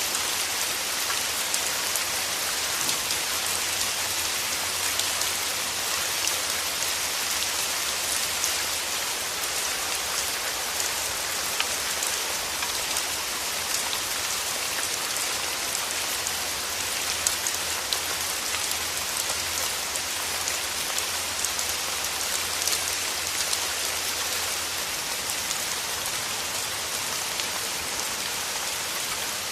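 Steady rain falling through forest trees: a dense, even patter of drops, with many small individual drop ticks.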